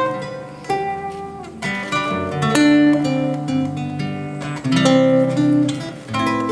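Guitar music without singing, the instrumental close of a song: plucked notes and chords with sharp attacks that ring on over a moving bass line.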